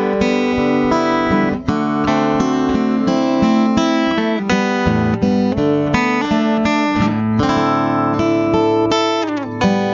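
Acoustic guitar playing a picked instrumental introduction, a fast run of single notes with a brief break under two seconds in and a few chords near the end, just before the singing comes in.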